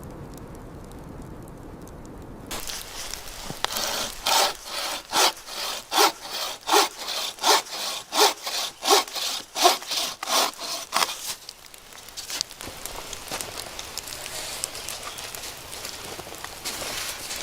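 Hand saw cutting through wood in quick, even back-and-forth strokes, about two and a half a second, stopping after some seven seconds.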